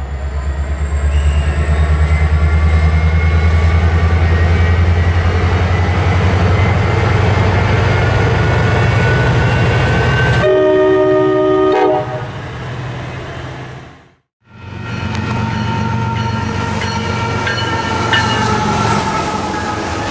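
A freight train passing close: a heavy, pulsing low rumble with a thin high whine that rises slowly in pitch, and the horn sounding about ten seconds in. After a brief break in the sound, container cars roll by with a steady rumble and thin wheel squeal.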